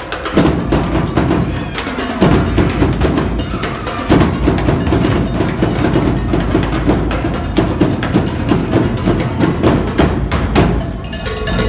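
A drumline playing a busy, fast percussion cadence, with sharp clicking strikes over steady drum beats.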